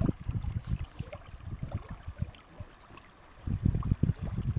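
River water moving and gurgling, with uneven low rumbling and knocks. It eases off about two seconds in and grows louder again near the end.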